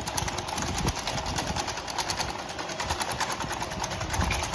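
Packaging conveyor line running with a fast, even mechanical rattle of small clicks, as screw-capped glass jars pass the acoustic vacuum leak detector.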